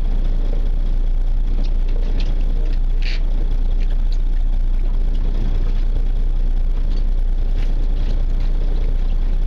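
Fishing boat's engine idling steadily, a continuous low rumble, with a few brief clicks and rattles on top, the clearest about three seconds in.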